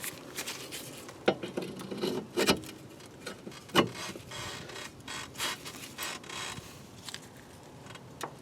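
Metal tools and parts clinking and knocking in irregular, scattered strokes, with three sharper clanks in the first four seconds.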